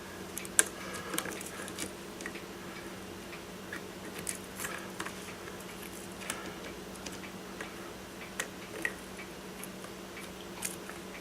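Scattered small clicks and light taps of a driver and screw on metal as a motor-mount screw is worked into place on an RC car's electric motor, over a steady low hum.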